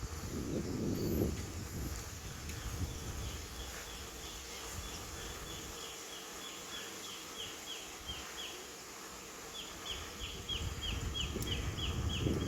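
A rapid series of short, high, falling chirps, about three to four a second, pausing briefly near the middle, from a small creature in the surroundings. Low wind rumble on the microphone at the start and again at the end.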